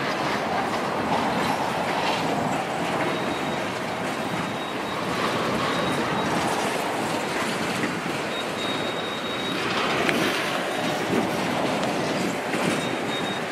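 Freight train of tank cars rolling past at close range: a steady rumble and clack of steel wheels on the rails, with a thin high wheel squeal coming and going several times.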